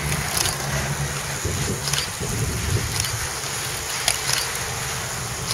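Wind buffeting the microphone: a steady low rumble and hiss, with a few faint ticks.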